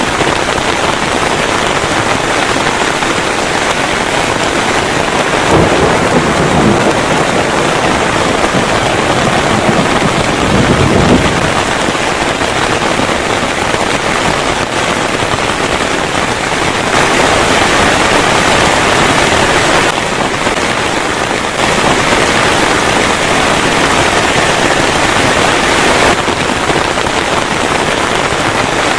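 Heavy rain pouring steadily, with two low rumbles of thunder in the first half.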